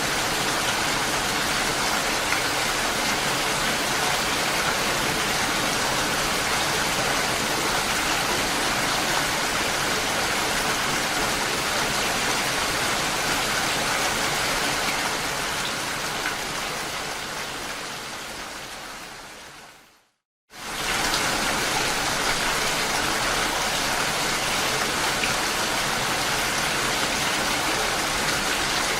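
Steady heavy rain, an even hiss of falling water. About two-thirds through it fades out over several seconds to a half-second of silence, then comes straight back at full level, as a looped rain recording restarts.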